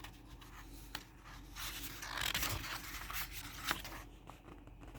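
Paper rustling and rubbing as the pages of a picture book are turned, with a few soft clicks.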